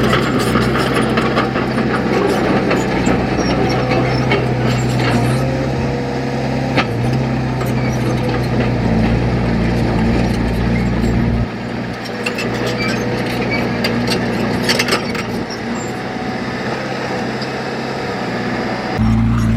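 Heavy diesel engine of earthmoving machinery running under load, with scattered clicks and rattles over the steady engine note. The engine eases off a little more than halfway through and picks up again near the end.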